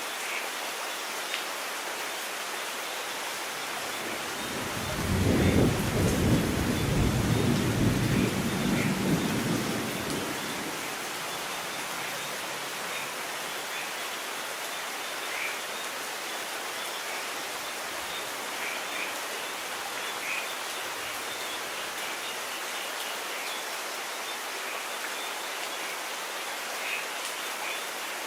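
Steady rain hiss with a roll of thunder about five seconds in that rumbles for some five seconds, then fades back into the rain.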